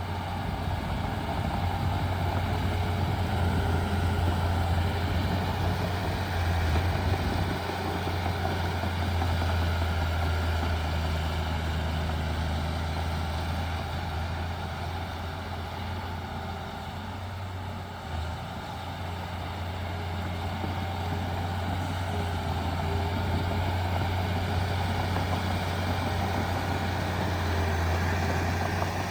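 Heavy diesel engine of earth-moving equipment running steadily with a deep drone, easing off slightly in the middle and picking up again.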